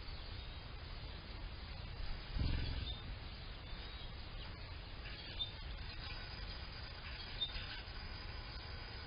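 Songbirds chirping in a yard, with short high chirps every couple of seconds over a low steady background. A brief low rumble comes about two and a half seconds in.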